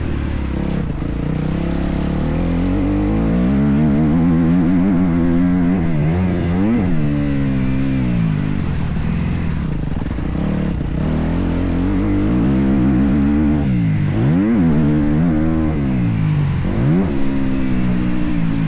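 Motocross dirt bike engine being ridden hard, its pitch climbing and falling as the throttle is worked. The throttle is chopped and reopened sharply several times, with quick dips and climbs in pitch, typical of shifting and of jumps and corners on a track.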